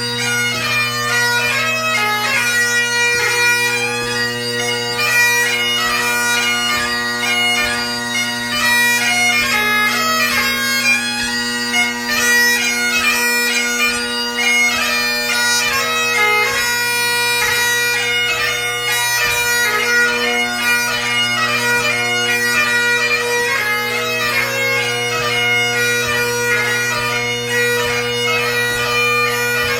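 Great Highland bagpipe played solo: the drones sound a steady low chord under a fast chanter melody full of quick gracenote ornaments, a tune from a ceòl beag (light music) competition set.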